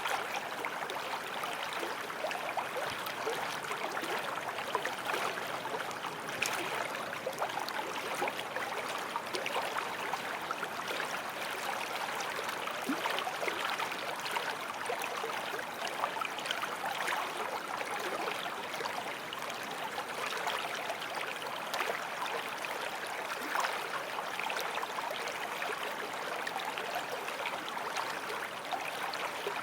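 Forest stream flowing and babbling steadily over stones, a continuous rushing with fine splashing and gurgling.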